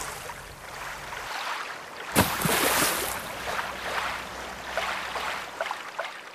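Water rushing and splashing around a kayak on a river, with a sharper, louder splash about two seconds in.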